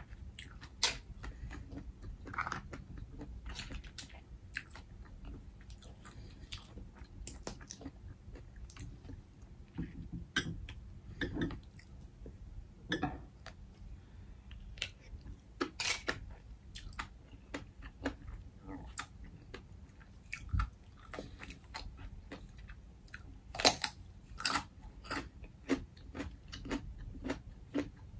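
Close-miked chewing and mouth smacking of black mussels, with many short irregular clicks and smacks.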